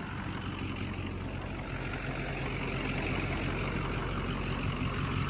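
Ford 6.0 Powerstroke turbo-diesel V8 in a 1979 F-250 running steadily at low revs while the rear tires spin on ice without traction, with a gently building hiss of the spinning tires.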